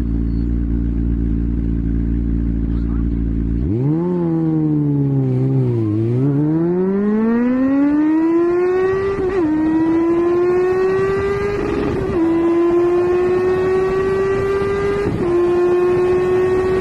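Superbike engine accelerating hard through the gears after a steady low drone in the first few seconds. The pitch climbs, dips once, then rises again, with a sudden drop at each of three upshifts.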